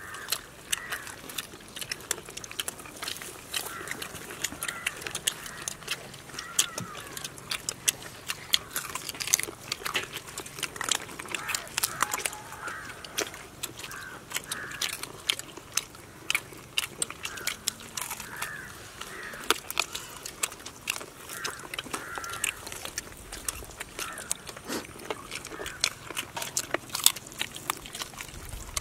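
Several people eating fried chicken legs: chewing, lip-smacking and crunching, heard as many quick sharp clicks and wet snaps close to the microphone.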